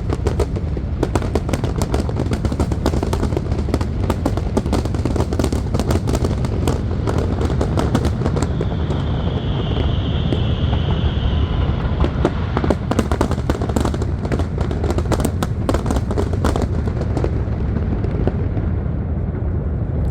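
Fireworks display going off: a dense run of crackling pops and bangs over a steady low rumble, with a brief high whistle about nine seconds in. The crackling thins out near the end.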